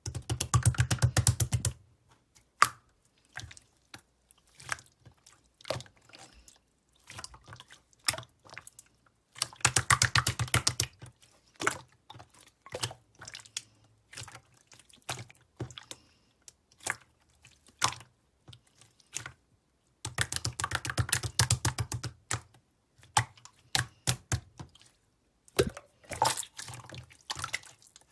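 Semi-clear slime being squished and pressed by hand, making sticky clicking and popping. Dense runs of rapid crackly pops come roughly every ten seconds, with scattered single clicks in between.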